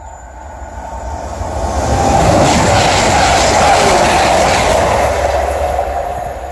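A train passing at speed on the main line: the sound builds over about two seconds, stays loud for about three seconds with a fast clatter of wheels on the rails, then fades as it moves away.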